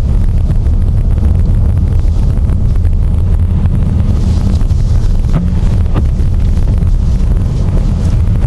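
Loud, steady low rumble of a vehicle driving on a snowy, plowed road, heard from inside the cabin, with wind noise mixed in. Two faint knocks come about five and six seconds in.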